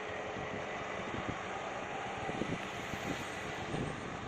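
Strong wind blowing across the microphone: a steady rushing noise with uneven low buffeting.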